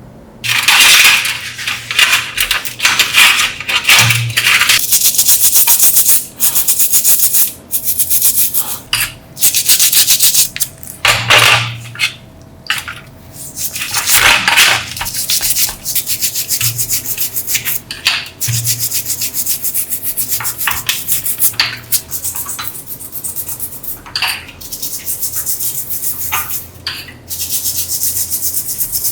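Abrasive rubbing on a surface, like sanding, in runs of rapid strokes that stop and start every few seconds.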